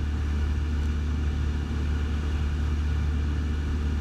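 Cessna 172's piston engine and propeller running steadily in flight, an even low drone heard from inside the cockpit.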